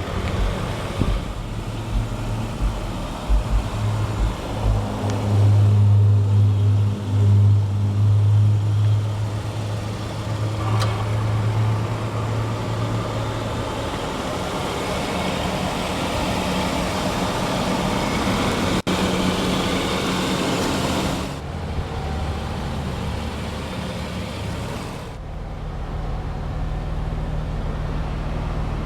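A 2003 Chrysler 300M Special's 3.5-litre 24-valve V6 idling through its performance exhaust, a steady low hum. The note changes in strength about two-thirds of the way through.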